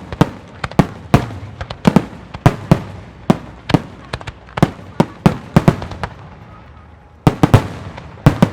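Aerial fireworks shells bursting in quick succession: sharp, loud bangs about two a second, each trailing off in a short crackle. They thin out briefly about six seconds in, then a rapid cluster follows near the end.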